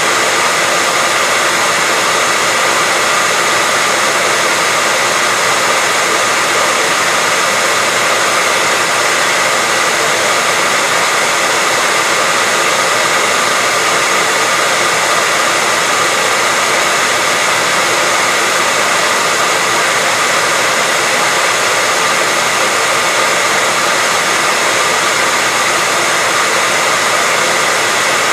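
Hair dryer running steadily, a constant loud rushing of air with a faint steady whine from the motor and fan.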